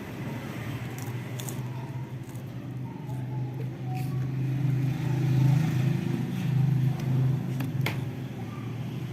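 Low steady rumble like a running motor vehicle, growing louder from about four seconds in and easing again near the end, with a few faint chirps and sharp clicks over it.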